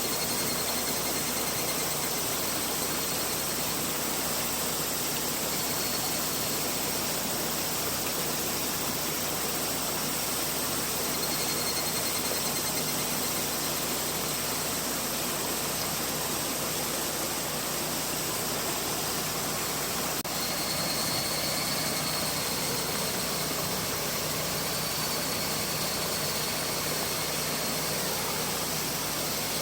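A mountain river flowing, a steady rushing hiss of water over rocks. A faint, thin, high-pitched tone comes and goes over it.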